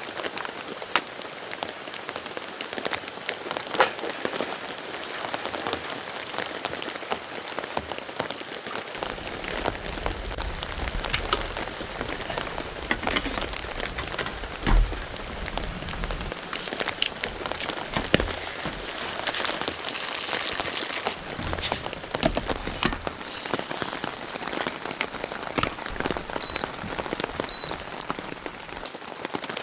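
Heavy rain falling steadily, with many separate drops ticking and pattering close by. A low rumble runs through the middle.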